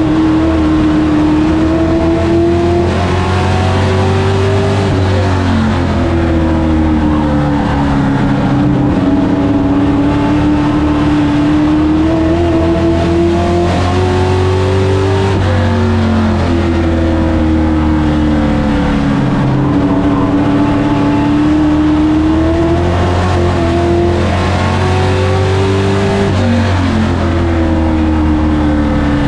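Race truck engine at full throttle on an oval, its pitch climbing and then dropping back again and again, every several seconds, as it accelerates and lifts off, with tyre and road noise under it.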